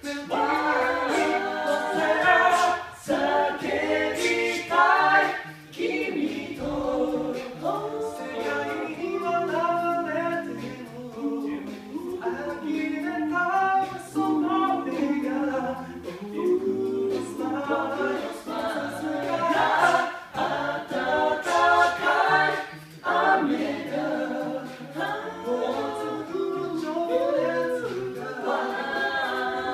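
An a cappella vocal group singing a pop song in close harmony, several voices layered over a low sung bass line, with short sharp clicks scattered through the singing.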